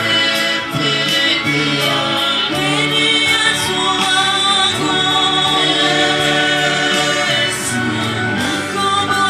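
Gospel worship song sung by a group of voices with instrumental accompaniment, steady throughout.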